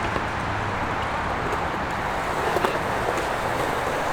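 Skateboard wheels rolling steadily over concrete, an even rough hiss with a few faint clicks.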